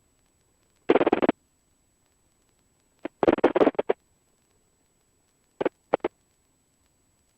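Three short noisy bursts over the aircraft's headset intercom/radio audio, thin-sounding and unintelligible: one about a second in, a longer cluster a couple of seconds later, then two quick blips near the end. Between them the feed is cut to silence.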